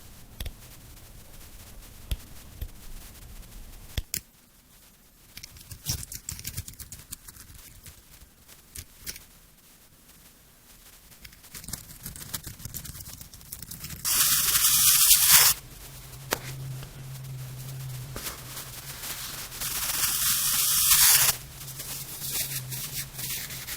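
Knife cutting through a crisp, hard object: scattered sharp clicks and crackles, with two long, loud hissing scrapes, one a little past halfway and one near the end. A low steady hum joins in for the second half.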